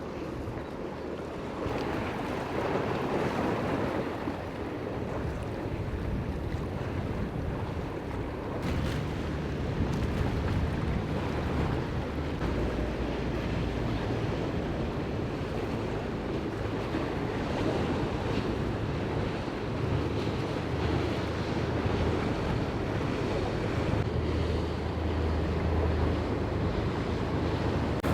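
Wind buffeting the microphone over waves washing and breaking, with a low steady rumble underneath.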